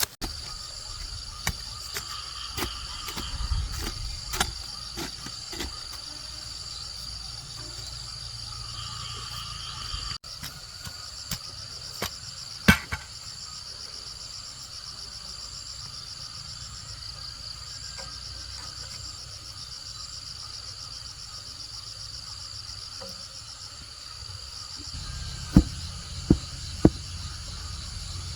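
Steady high-pitched insect chorus, like crickets, running throughout, with scattered sharp knocks; one loud knock about halfway through and three loud knocks in quick succession near the end.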